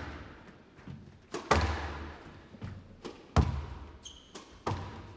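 Squash ball being struck during a rally: a run of sharp racket and wall hits, the loudest about one and a half and three and a half seconds in, each ringing on briefly in the hall. A brief high squeak about four seconds in.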